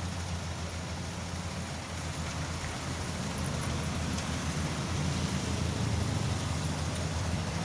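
Engine-driven rice thresher with a blower (a 'blower kombi') running steadily, a continuous low engine hum under a rushing noise, a little louder from about four seconds in.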